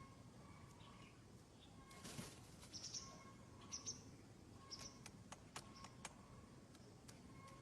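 Faint, high bird chirps a few times, over a low hiss, with sharp light clicks scattered through the second half.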